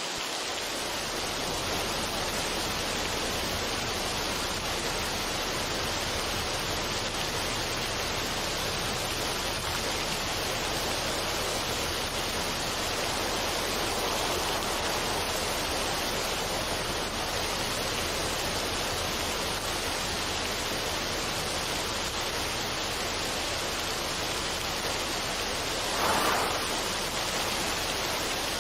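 Steady, even rushing noise with no music or voice, in the manner of a relaxation noise track. A brief louder swell comes about 26 seconds in.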